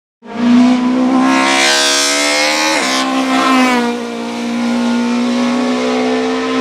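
Racing car engine running at high revs under acceleration. The pitch climbs, drops with a gear change about three seconds in, then holds steady.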